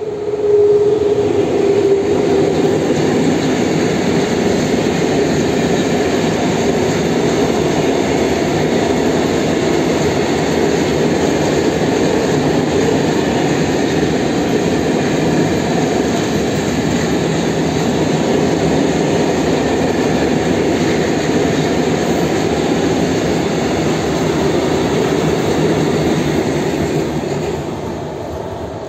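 Electric-hauled freight train of tank wagons passing close by: the wheels running on the rails make a loud steady noise throughout, with a brief steady tone in the first couple of seconds as the locomotive goes by. Near the end the noise drops as the train is heard from farther off.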